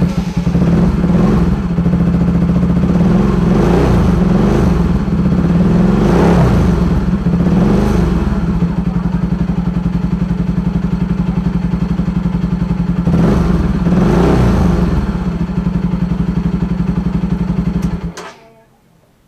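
Bajaj Pulsar 200NS single-cylinder motorcycle engine running with a supercapacitor bank fitted in place of its battery, revved briefly several times, then switched off abruptly about 18 seconds in.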